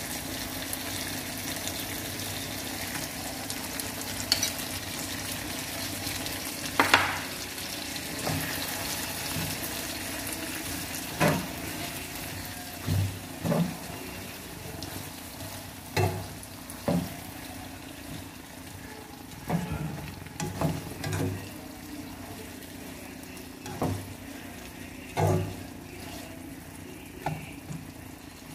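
Sausages, onions and sambal chili paste sizzling steadily in a non-stick wok while being stirred with a spatula, with irregular knocks and scrapes of the spatula against the pan from about a quarter of the way in. The sambal is being stirred and cooked down until it thickens.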